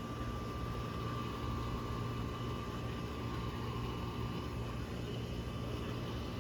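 Steady outdoor background noise: a low rumble and even hiss, with a faint steady high whine running through it.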